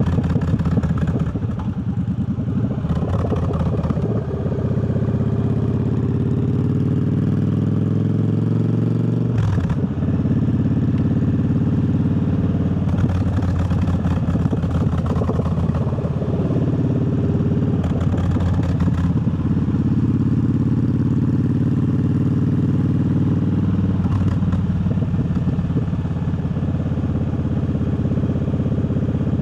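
Triumph Bobber's parallel-twin engine under way: it rises in pitch as the bike accelerates for several seconds, drops sharply at a gear change about nine seconds in, then runs at a fairly steady cruise with small throttle changes.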